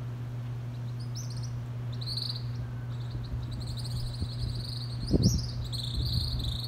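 Small birds calling in a coconut palm: repeated high-pitched chirps start about a second in and go on, over a steady low hum. A low thump sounds about five seconds in.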